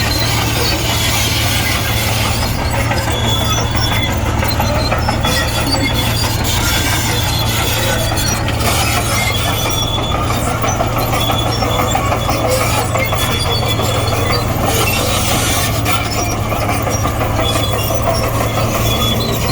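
Komatsu D58E crawler bulldozer running steadily under load as it pushes soil, the diesel engine's drone under the clatter of its steel tracks, with short high squeals from the tracks every few seconds.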